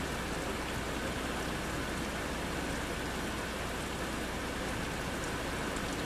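Steady thunderstorm rain falling on trees, an even hiss with faint scattered drop ticks.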